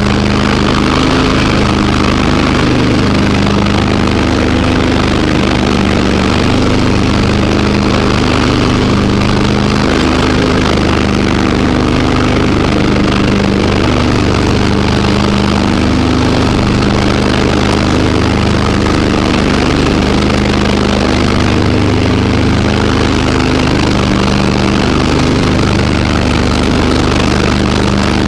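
Garden tractor engine running steadily at an even speed, loud and close.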